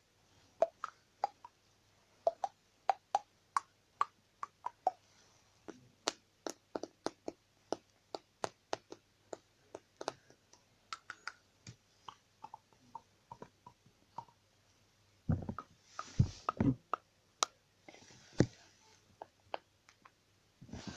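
A person making weird mouth noises: a long run of quick tongue clicks and lip pops, a few a second, some with a short pitched tone, then louder thumping pops and breathy hisses near the end.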